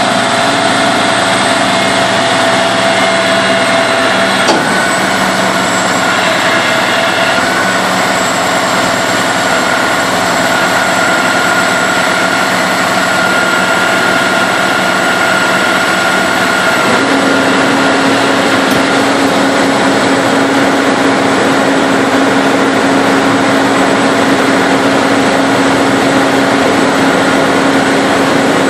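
Heavy-duty tow truck running loud and steady, with a whining tone that shifts pitch about four seconds in and again about seventeen seconds in.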